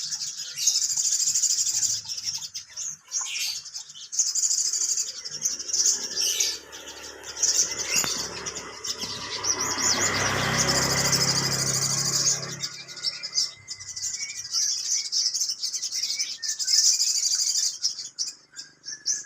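Sogon bird singing: repeated high, rapid trilling phrases, each a second or two long, with short gaps between. Around the middle a louder rumbling noise swells and fades under the song.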